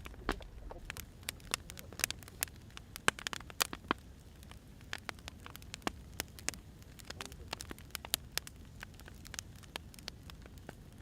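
Firewood burning in a wood fireplace, crackling with irregular sharp pops, several a second, over a low steady rush.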